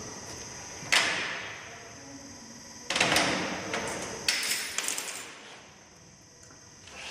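Metal tools and parts knocking and clattering in three bursts, about a second in, at three seconds and at four and a half seconds, each ringing on briefly, over a steady high-pitched whine from the workshop equipment.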